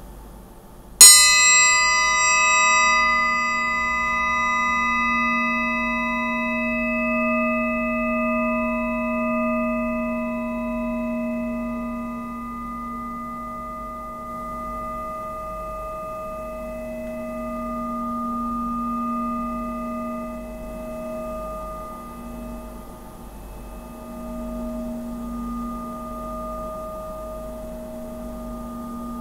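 Wootz (bulat) steel blade blank struck once about a second in and left ringing: the high overtones die away within a few seconds while several lower tones ring on, slowly pulsing louder and softer. Bladesmiths listen to this ring and how long each tone lasts for signs of the blade's heat treatment.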